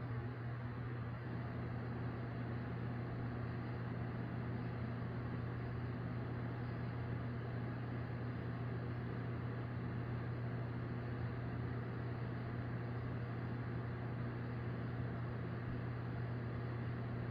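Steady low mechanical hum with a constant hiss, a running motor or machine droning without change; no thunder is heard.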